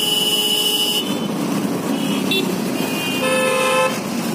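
Street traffic with vehicle horns honking: one horn held through the first second, then a second short honk a little after three seconds in.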